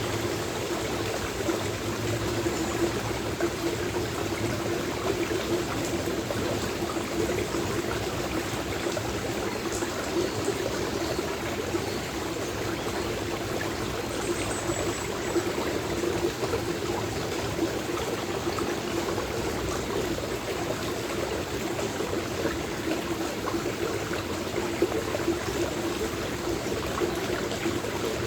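Stream water flowing steadily, an even rushing and trickling with a fuller low gurgle.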